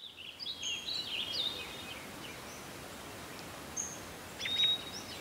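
Songbirds singing, a quick run of chirps and whistled calls in the first two seconds, then a pause and a few more calls near the end, over a faint steady outdoor hiss.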